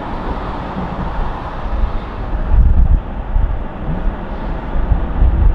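Car driving, heard from inside the cabin: a steady engine and road rumble with heavy low buffets about two and a half seconds in and again near the end.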